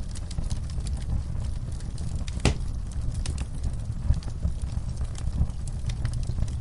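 Wood fire crackling in a fireplace: a steady low rumble with scattered sharp pops and snaps, one louder pop about two and a half seconds in.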